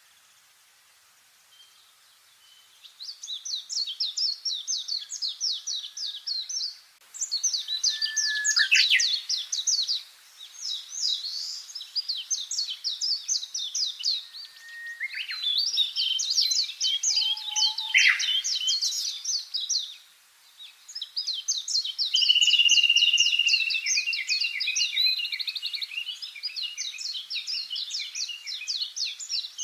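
Songbirds singing phrases of rapid trilled notes, each phrase a few seconds long, several birds overlapping. The song starts after about two and a half seconds of quiet.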